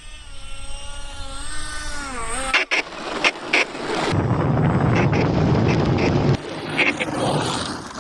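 An RC model 737 airliner's motors whine in a steady pitched tone that dips and comes back up a little over two seconds in, then cuts off. A run of sharp knocks and clatter follows, then a loud rushing noise, as the model comes in to land.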